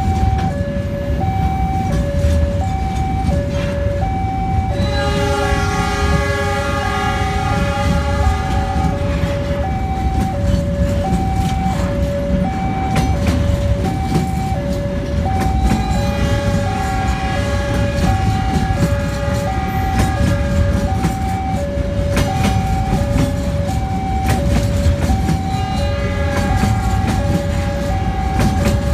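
Flat container wagons of a freight train rolling past at close range, a dense low rumble of wheels on rail. Over it a level-crossing alarm sounds a steady two-note ding-dong, about two notes a second. Twice, about five seconds in and again past the middle, a high ringing metallic whine rises over it for a few seconds.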